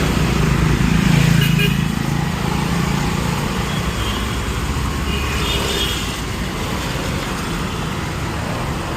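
Street traffic: steady road noise with a motor vehicle's engine passing, loudest about a second in.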